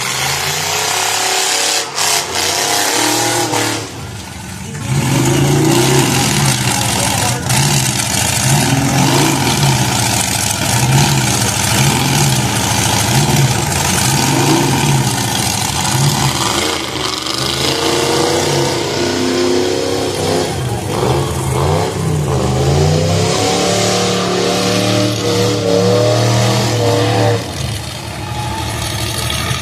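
Demolition derby car engines revving hard, their pitch rising and falling over and over.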